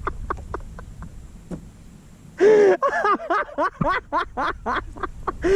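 A man's voice: faint short sounds at first, then from about two and a half seconds in a loud burst of laughter or an exasperated wordless outburst, rising and falling several times a second.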